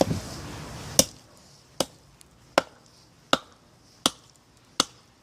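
Hatchet chopping into a hard, dead log: six sharp, evenly spaced strikes about three-quarters of a second apart, the first the loudest.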